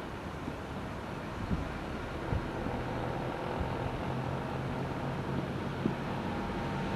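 Diesel locomotive engine running with a steady low rumble and hum, with wind buffeting the microphone.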